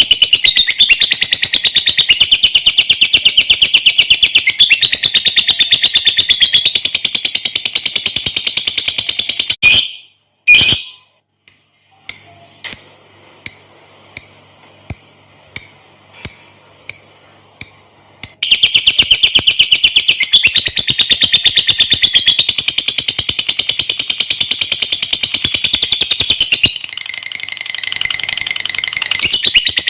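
Lovebird giving its long, very fast high-pitched chattering trill (the 'ngekek panjang' song). It breaks off after about nine seconds into a string of separate short chirps about one a second, then goes back into the rapid trill for the rest.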